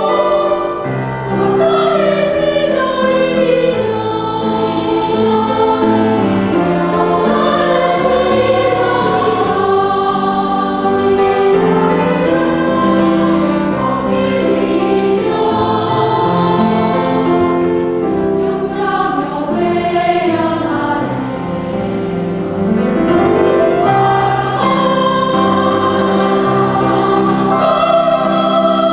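Buddhist temple choir singing a Buddhist hymn in several parts, holding sustained chords that move together every second or two.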